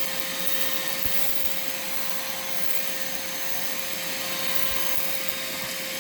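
Vacmaster 2.5-gallon, 2-peak-horsepower shop vac running steadily with a constant whine, sucking up dirt through a floor nozzle.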